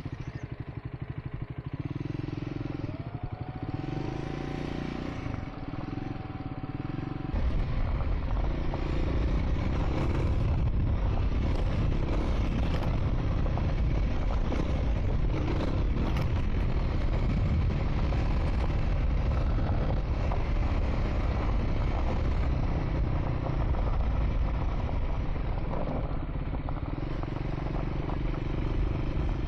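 Triumph Scrambler 400X's single-cylinder engine running as the motorcycle rides a dirt track. About seven seconds in the sound grows louder, with a heavy low rumble that holds steady to the end.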